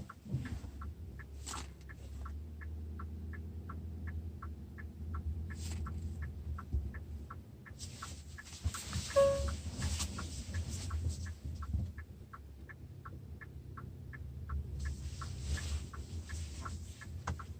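Car's reverse parking-sensor warning beeps repeating evenly about two and a half times a second while backing into a space, over a low engine hum. A single louder, lower beep sounds about nine seconds in.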